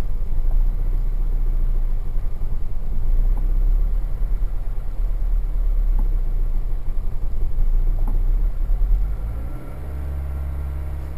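Toyota 1ZZ-FE 1.8-litre four-cylinder, heard inside the cabin, idling roughly and unevenly when cold: the revs sag and hunt as the engine tries to stall. About nine seconds in, the revs rise to around 2000 and the note turns steady and even.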